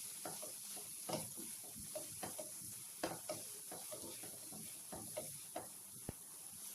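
Chicken pieces in thick yogurt masala being stirred in a pan, the utensil scraping and knocking against the pan at an irregular pace, over a steady frying sizzle.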